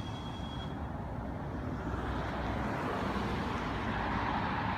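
A motor vehicle on the street: a steady low rumble, with road noise growing louder from about two seconds in as it approaches.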